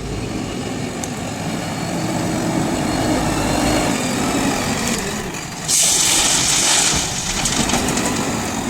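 JCB 3DX backhoe loader's diesel engine running under load, its pitch rising and falling as it works. Past the middle, a loud hissing rush lasts about a second.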